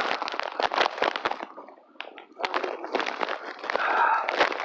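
Hikers' footsteps crunching on a woodland trail, a rapid run of short crunches that pauses briefly about two seconds in.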